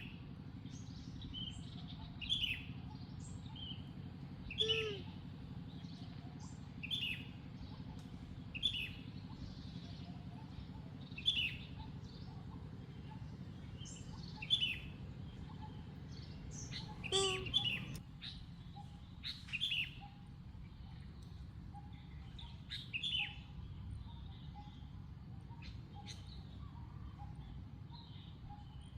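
High-pitched animal chirps with falling pitch, repeated every second or two, over a steady low hum.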